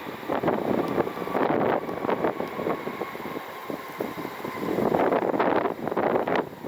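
Gusty wind buffeting the microphone outdoors, rising and falling in gusts, with a faint steady whine for a few seconds in the first half.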